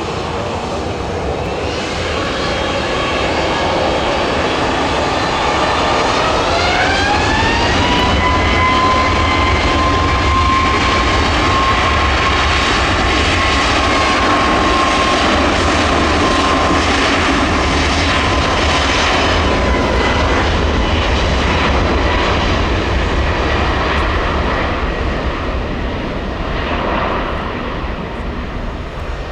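Airbus A321neo jet engines spooling up for takeoff: a whine climbs in pitch about six seconds in, then holds steady over the loud engine noise, which eases off near the end.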